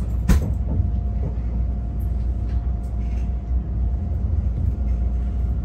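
Steady low rumble of a Renfe AVE high-speed train, heard inside the passenger cabin as it rolls at low speed, with a faint steady whine and one sharp click about a third of a second in.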